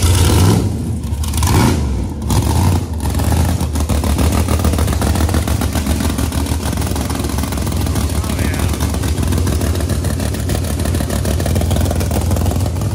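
Supercharged V8 drag engine in a Chevy Blazer running at a lumpy idle. It is blipped up a few times in the first three seconds, then settles into a steady idle.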